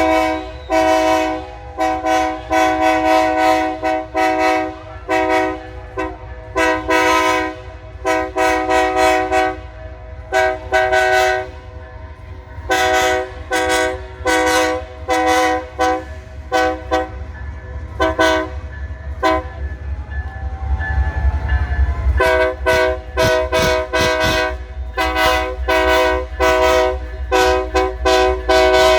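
Diesel locomotive horn sounding many short blasts in quick, uneven succession, each a chord of several tones, over the steady low rumble of the locomotive. The blasts stop for about two seconds around two-thirds of the way through while the rumble swells, then start again.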